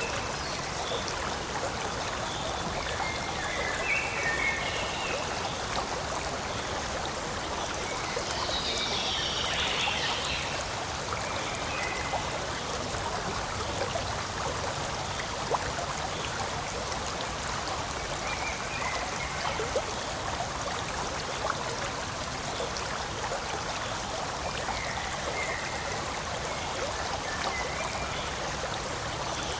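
Forest stream running steadily, a constant rush of flowing water, with a few short high chirps now and then.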